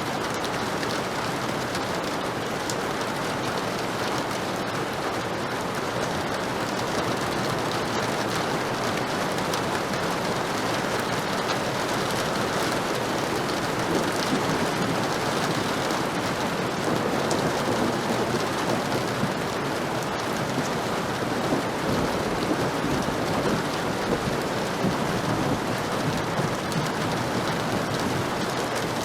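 Heavy rain falling steadily, with a low rumble of thunder about two thirds of the way in.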